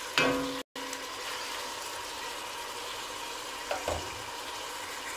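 Chicken pieces sautéing in oil with garlic and onion in a stainless steel stockpot: a quiet, steady sizzle. A wooden spoon stirs briefly at the very start, and the sound drops out for an instant less than a second in.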